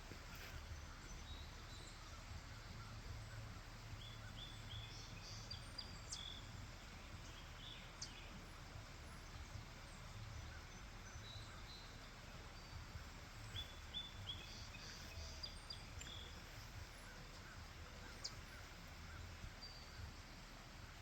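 Faint outdoor ambience: a steady low rumble with scattered bird chirps, including two runs of quick repeated chirps, one about four seconds in and one around thirteen seconds in.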